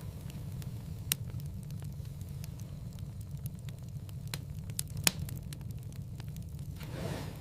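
Wood fire in a fireplace crackling over a steady low rumble of flames, with scattered small ticks and two sharper pops, about a second in and about five seconds in, the second the loudest. A soft rush of flame swells near the end.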